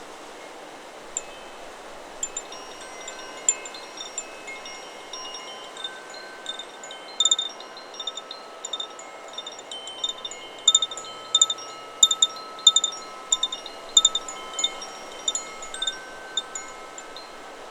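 Chakra Chimes 'Solar Plexus' wind chime ringing in the wind: scattered strikes of several sustained tones, sparse at first and much busier from about halfway, over a steady hiss of wind.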